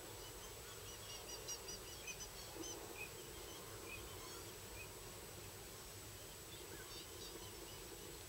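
Faint steady background hiss with scattered short, high-pitched bird chirps, most of them between about one and four seconds in and a few more around seven seconds.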